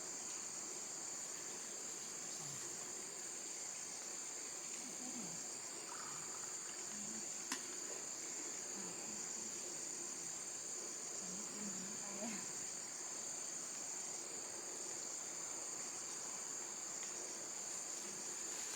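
Steady, high-pitched chorus of insects, with a single sharp click about seven and a half seconds in.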